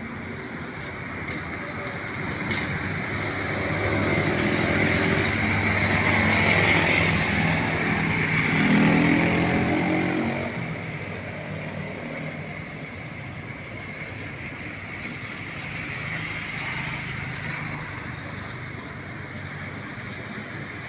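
Road traffic: a motor vehicle's engine grows louder, is loudest about nine seconds in, then fades, over a steady background of road noise.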